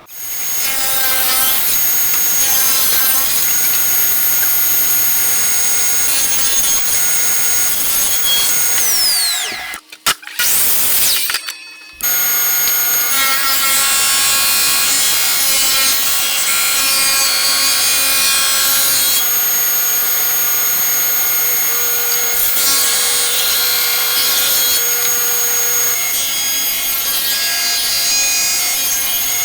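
A power tool sawing or abrading wood with a steady, loud rasping noise, broken by two abrupt drop-outs about ten and twelve seconds in.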